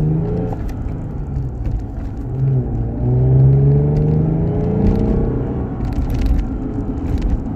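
Lexus IS350's 3.5-litre V6 under load, its note rising and falling in pitch as the car drives. The engine breathes through an F-Sport intake and an exhaust of Flowmaster high-flow secondary cats, a Vibrant Ultra Quiet resonator and an F-Sport axle-back. It is heard from inside the cabin with the windows up, as a deep rumble.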